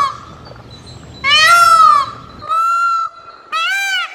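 Peacock calling: three loud, nasal calls, each under a second and rising then falling in pitch, the first about a second in and the other two close together near the end.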